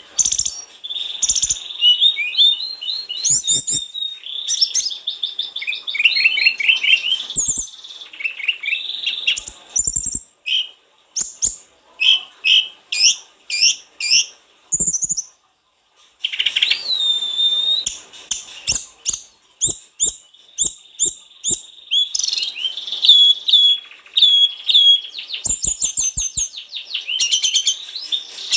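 A sulingan gunung (tledekan gunung) songbird singing lively and continuously: rapid high chirps, short trills and quick repeated notes, with a brief pause about halfway through.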